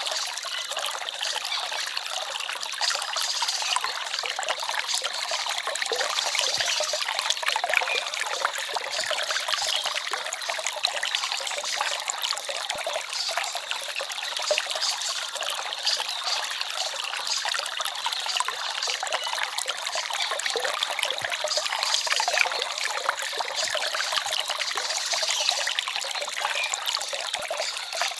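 Small forest stream trickling and babbling steadily over stones, a continuous bright water sound with little low rumble.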